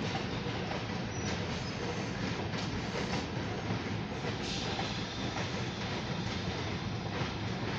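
Oil Creek & Titusville Railroad passenger coaches rolling past at a grade crossing: a steady, even rumble of wheels on the rails, heard from inside a car.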